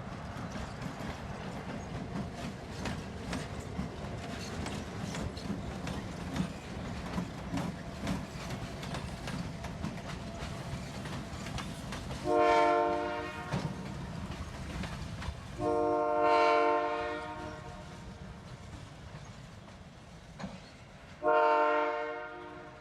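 Freight train rolling with a steady low rumble and clatter, then the locomotive's air horn sounding three blasts, the middle one the longest, starting about twelve seconds in.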